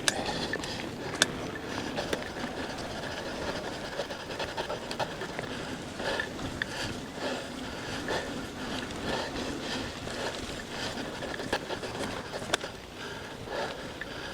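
A person panting hard while riding a mountain bike over rough ground. A few sharp knocks and rattles from the bike stand out, the loudest at the very start and about a second in.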